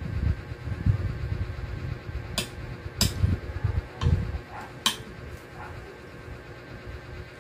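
Chewing sounds from someone eating, with a metal spoon clinking against the plate about three times around the middle.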